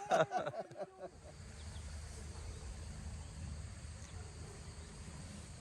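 A man's voice trails off in the first second, then a faint, steady insect drone carries on.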